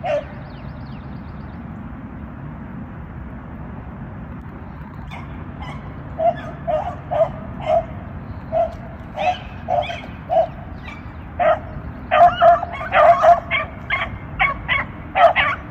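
Beagles baying on a rabbit's track. Spaced bays start about six seconds in and come faster and louder near the end as the dogs run hot on the scent.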